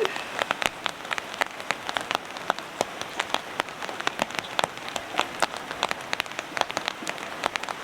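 Rain falling, with heavy drops striking hard surfaces as many irregular sharp ticks over a faint steady hiss.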